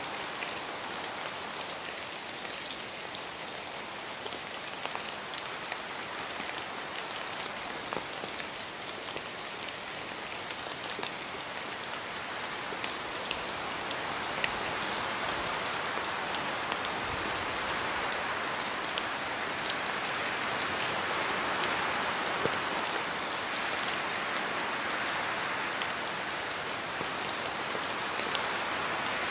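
Steady rain falling and pattering on surfaces, with many scattered drop ticks; the wash of rain swells slightly louder in the second half.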